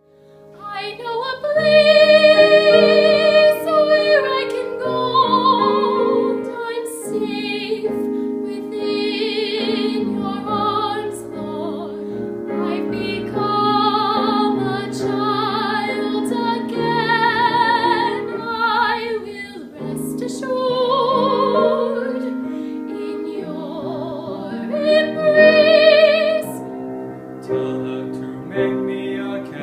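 A solo classical singer with a wavering vibrato, singing a slow art song or aria over piano accompaniment.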